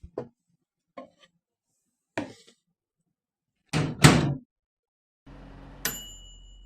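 A series of knocks and thuds, the loudest a quick double bang about four seconds in, then a low steady hum under a sharp click that rings briefly with a metallic tone.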